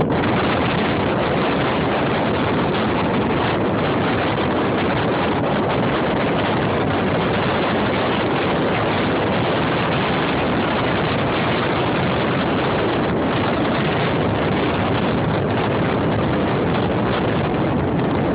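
Strong storm wind blowing hard over the microphone: a loud, steady rushing noise.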